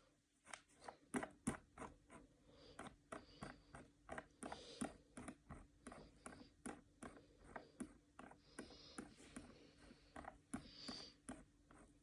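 Typing on a keyboard: short key clicks at an uneven pace of about two or three a second.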